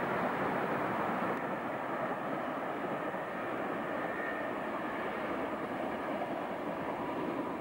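Passenger train running past on the line: a steady rolling rush of wheels on rails.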